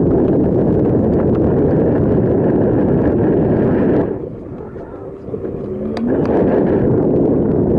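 Wind buffeting the microphone of a camera carried on a moving bicycle, a loud low rumble that eases off about four seconds in and surges back about two seconds later.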